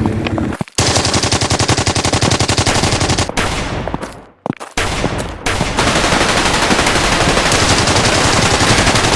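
Machine-gun fire sound effects: a long rapid burst, a short break about four seconds in, then heavier, continuous gunfire.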